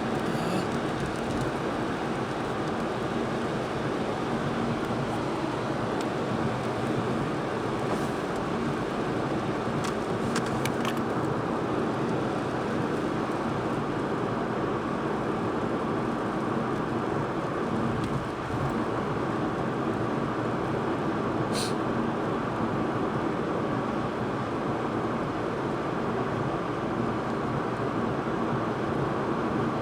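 Steady road and engine noise from inside a moving vehicle, with a low steady hum and a few faint clicks.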